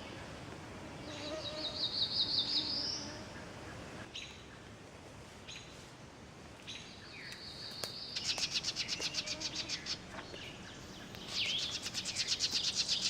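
Songbirds singing in a morning chorus. About a second in there is a short rising run of notes, then two songs of fast repeated notes that grow louder, the second near the end.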